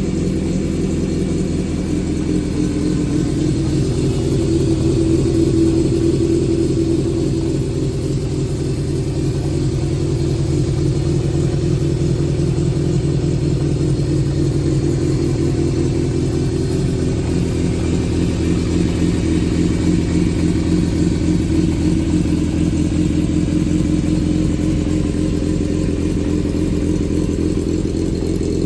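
Yamaha XJ400's air-cooled inline-four engine idling steadily, its speed swelling slightly a few seconds in. It runs evenly with no odd noises, which the seller takes as the engine being in good order.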